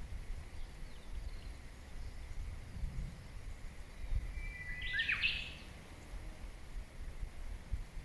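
A wild bird calls once about halfway through: a short steady whistle followed by a quick, harsher burst of notes. A low outdoor rumble runs underneath.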